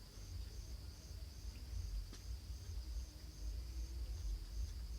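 Insects chirping in the background: short high pulses about twice a second over a constant high buzz, with a low hum underneath and a faint click about two seconds in.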